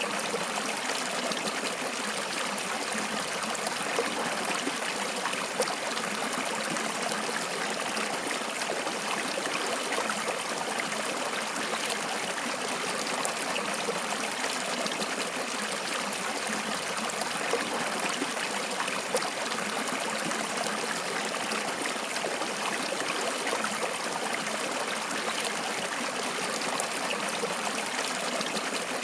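Flowing water of a stream, rushing and trickling steadily, with a few faint splashes.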